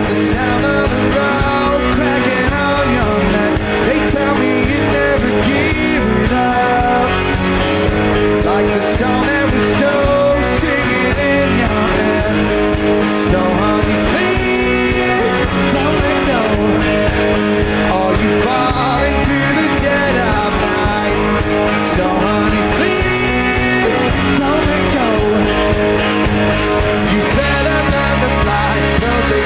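A rock band playing live and loud: electric guitars over bass and drums, with a wavering lead line that may be voice or guitar.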